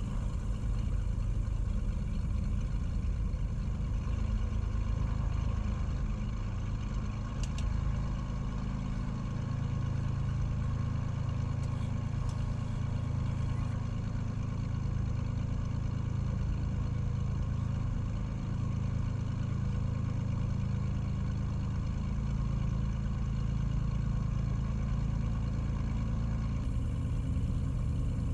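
Light aircraft's piston engine and propeller running steadily, heard from inside the cockpit, with a couple of faint brief clicks.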